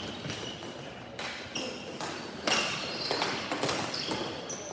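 Ball hockey play: a string of short, high shoe squeaks on the court floor and sharp clacks of sticks and ball, the loudest clack about two and a half seconds in.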